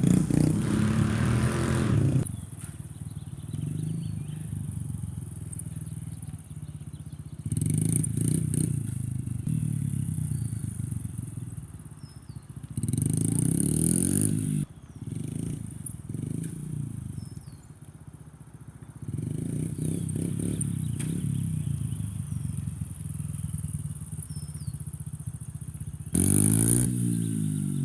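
A small off-road vehicle's engine running, revved up in louder bursts several times with the pitch rising and falling between quieter stretches.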